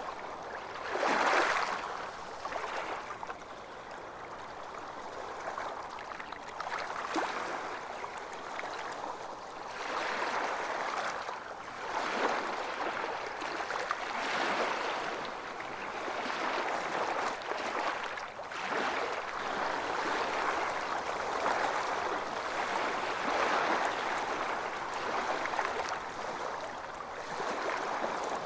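Waves washing onto a beach: a steady rush of surf that swells and fades every few seconds, with the loudest surge about a second in.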